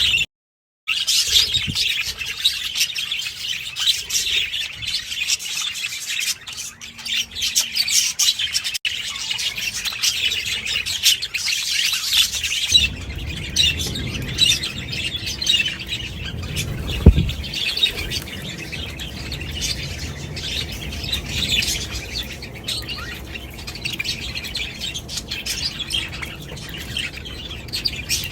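A flock of budgerigars chattering and chirping together in a dense, continuous chorus.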